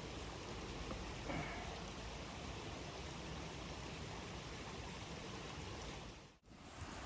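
Steady rushing storm noise, even and without any pitch, that drops out abruptly for a moment near the end.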